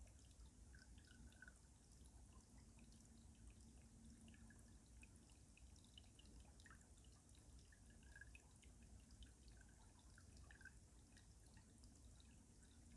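Faint stream water trickling and dripping beneath ice: scattered small drips and gurgles over a low steady rumble.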